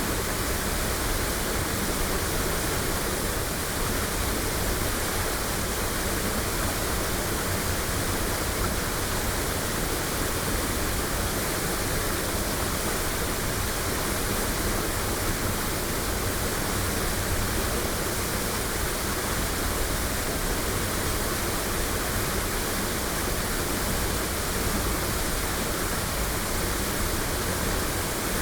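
Waterfall pouring, a steady, even rush of falling water with no breaks.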